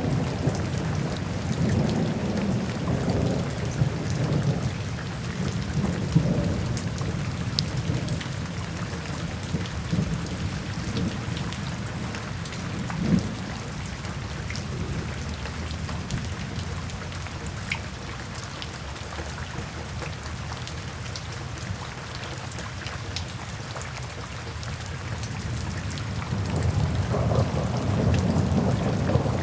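Steady rain with scattered drops ticking, under a low rolling rumble of thunder that eases off through the middle and builds again near the end.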